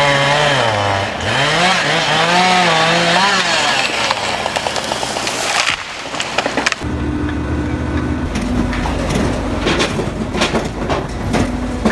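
A sound with several pitches swooping up and down for about the first five seconds. Then, from about seven seconds in, a firewood processing machine runs steadily with repeated sharp knocks and cracks of wood being cut and split.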